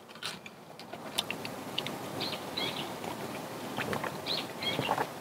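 Small birds chirping, short arched calls repeated every second or so, over steady outdoor background noise, with a few soft clicks.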